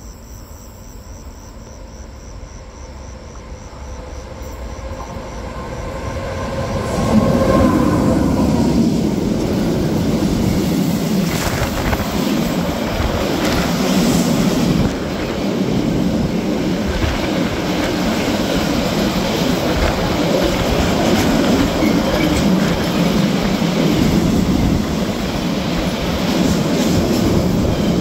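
A freight train runs through the station at speed, hauling empty two-deck car-carrier wagons. It is heard coming closer for a few seconds and arrives with a sudden rise about seven seconds in. After that comes a steady loud rumble and clatter of wheels on rail that swells every second or two as wagon after wagon goes by.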